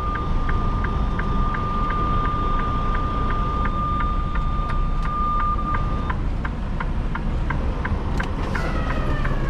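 Freightliner semi truck in the cab, engine running low while reversing, with a steady high-pitched warning tone that stops about six seconds in, and a regular ticking about three times a second. The driver takes the warning for clutch overheating, which he says these Freightliners always do when backing up a hill. A short falling pitched sound comes near the end.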